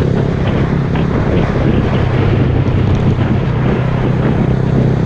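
Honda Grom's 125 cc single-cylinder engine running at a steady cruising note, with heavy wind noise buffeting the camera microphone.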